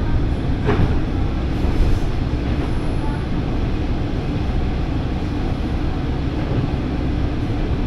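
Diesel railcar running along the line, heard from inside the car: a steady low rumble of engine and wheels on the rails.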